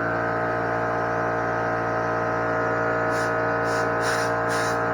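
Small Hitachi air compressor running steadily with a constant hum. From about three seconds in come four short hisses of an air nozzle blowing out carburetor parts, about half a second apart.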